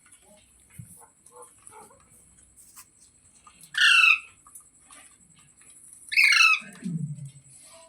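Pet parrot giving two loud, harsh squawks about two and a half seconds apart, each about half a second long, followed by a short low falling sound.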